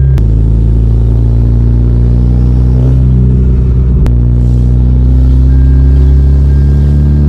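Hyundai Genesis Coupe's turbocharged 2.0-litre four-cylinder running steadily with its air filter off, its pitch creeping slightly higher over the last few seconds. Two sharp clicks, just after the start and about four seconds in.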